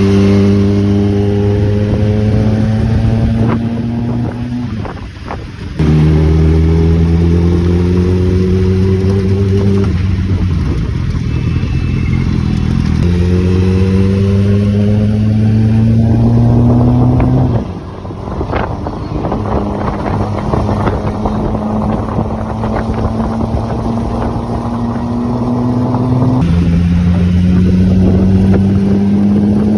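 A Yamaha R1's inline-four engine under way, its note rising slowly through each gear with several gear changes. The throttle lifts briefly about five seconds in and again around eighteen seconds.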